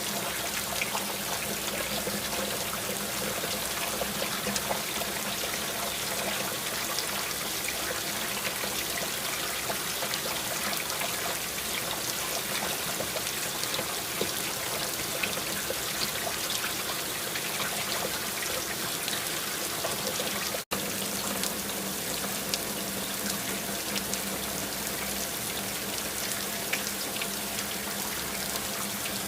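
Steady rain falling, a dense patter of small drops with trickling water. The sound cuts out for a split second about two-thirds of the way through.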